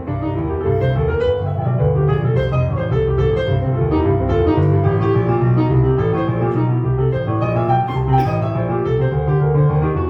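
Piano music played continuously, with many notes over strong low bass notes.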